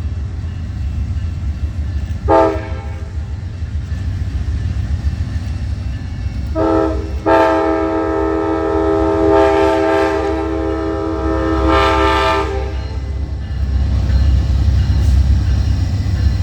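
Locomotive air horn sounding over the low rumble of a passing train: a short blast, another short one a few seconds later, then a long blast of about five seconds.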